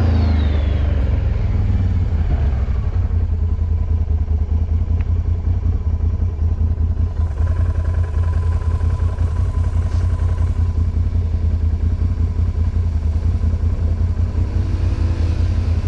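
ATV engine running steadily at low speed under way, a low, evenly pulsing engine note, a little louder in the first couple of seconds.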